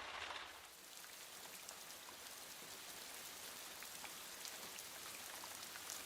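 Light, steady rain pattering faintly, with individual raindrops ticking.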